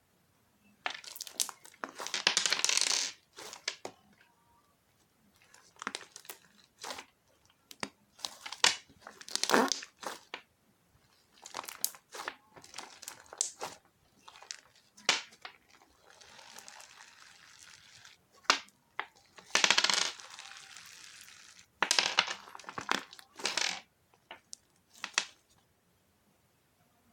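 Hands squishing, poking and stretching slime: irregular bursts of crackling and popping with short pauses between them.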